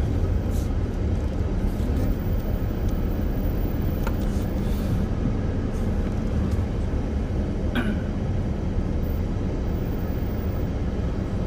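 Steady low rumble of a car's engine and road noise heard from inside the cabin while driving, with two brief clicks, one about four seconds in and one near eight seconds.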